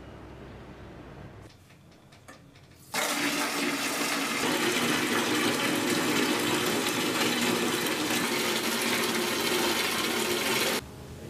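Tap water pouring into a plastic bucket: a steady splashing rush that starts suddenly about three seconds in and cuts off just before the end.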